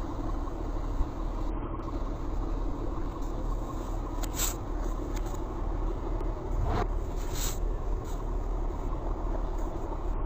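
Boat engines running steadily, a dense low rumble, with a few brief hisses partway through.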